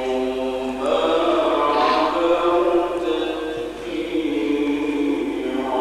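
A man's voice reciting the Quran in the melodic, drawn-out tajwid style, holding long notes that slowly bend in pitch.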